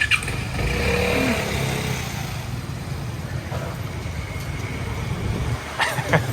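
Motorbike and street-traffic engines running steadily, with a few short clicks and knocks near the end.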